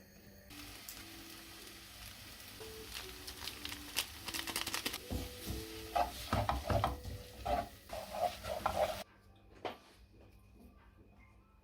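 Food sizzling in a hot pan while a utensil stirs it, with repeated clicks and scrapes against the pan. The sizzling stops abruptly about nine seconds in.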